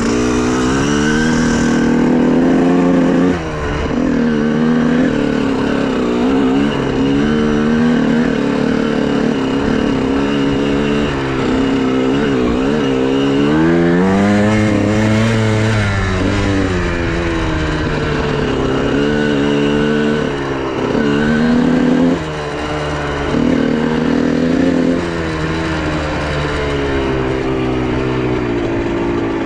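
Honda CR125R's two-stroke single-cylinder engine revving up and down as the dirt bike is ridden, its pitch rising and falling with the throttle and briefly dropping off a few times.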